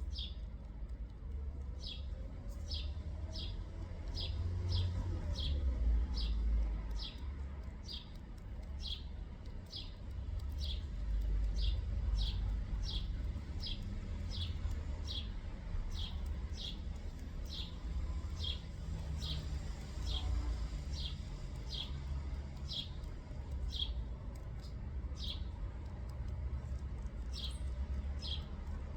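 A small bird calling: one short, high, down-slurred chirp repeated steadily, about one and a half times a second, over a low rumble.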